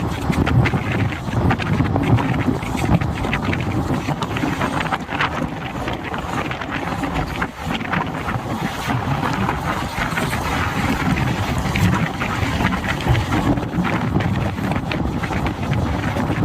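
Indian Railways passenger train running: a steady rumble of wheels on rails with frequent short rattles and clicks, and wind buffeting the microphone.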